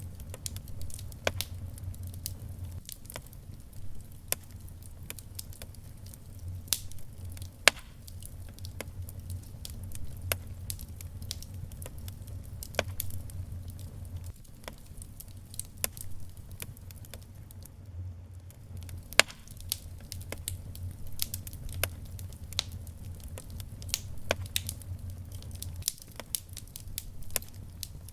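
Wood fire burning in a fireplace, crackling with irregular sharp pops and snaps over a low, unsteady rumble. Two louder pops stand out, one about a third of the way in and one about two thirds in.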